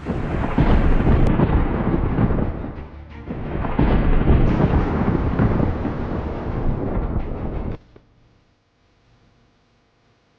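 A loud, rough rumbling noise that dips briefly near the middle and cuts off abruptly about eight seconds in.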